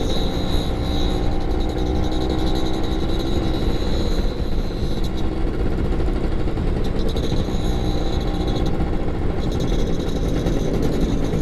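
Two-stroke Yamaha F1ZR motorcycle engine running steadily while riding, with wind noise over the microphone.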